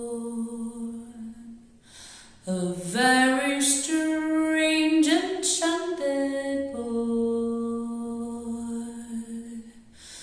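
A woman singing unaccompanied in a slow, free tempo. A long held note fades out, then she sings a phrase of moving notes and holds another long note.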